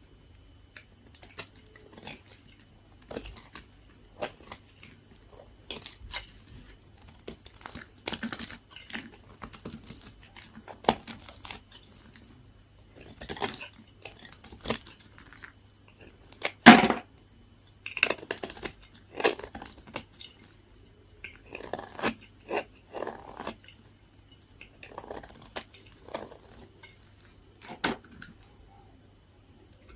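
A blade cutting through very dry bar soap: crisp, crackly crunches and scrapes in irregular strokes, with one louder crunch a little past the middle.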